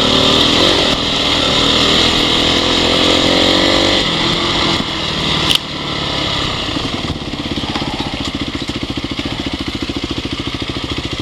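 Honda CRF dirt bike's single-cylinder four-stroke engine running under load, easing off about five seconds in and settling to an even, pulsing idle for the last few seconds before it cuts off at the end.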